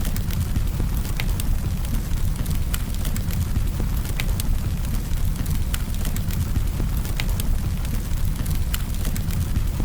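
Campfire burning, with sharp irregular crackles and pops of the wood over a steady low rumble of the flames.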